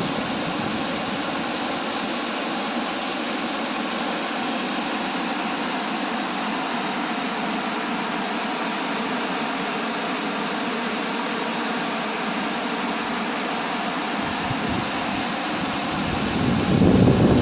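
Waterfall rushing steadily, an even roar of falling water. Near the end a low rumble swells underneath it.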